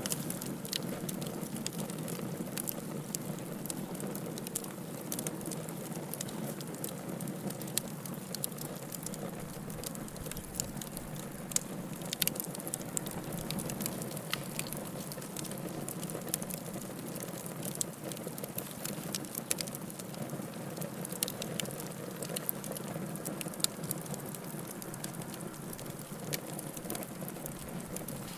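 Wood fire burning, with a steady low rush of flame and frequent sharp, irregular crackles and pops.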